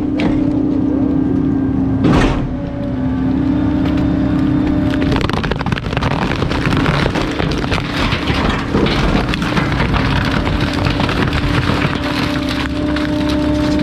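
Garbage truck's hydraulic compactor humming steadily while bulky waste is crushed in the hopper. There is a sharp crack about two seconds in, then dense crackling and cracking from about five seconds on as the load breaks up.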